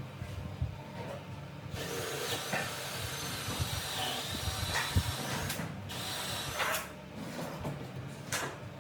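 A handheld power tool working wood starts about two seconds in and runs for about five seconds, its high whine dipping briefly in the middle. A few sharp knocks follow near the end.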